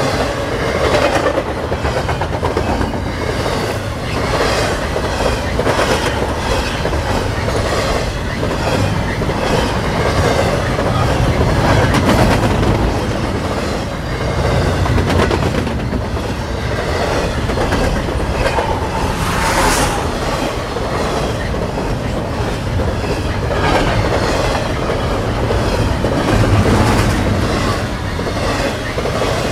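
Canadian National freight train of double-stack container cars rolling past at speed: a steady rumble, with the wheels clicking rhythmically over the rail joints.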